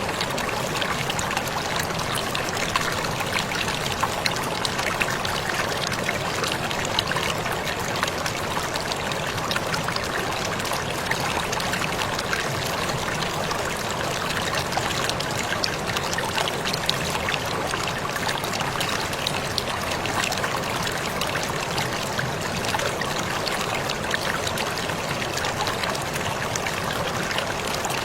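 Waterfall splashing steadily: a constant rush of falling water, flecked with many small splashes and drips.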